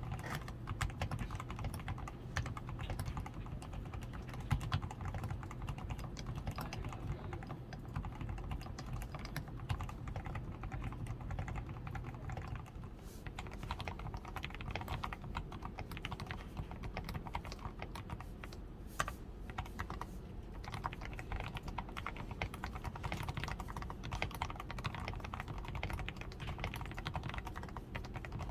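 Continuous fast typing on a DAREU A87 Pro mechanical keyboard, fully lubed with Krytox 105, tape-modded on the PCB, with foam added at the switches, lubed stabilizers and XDA keycaps: a steady, unbroken stream of key clacks.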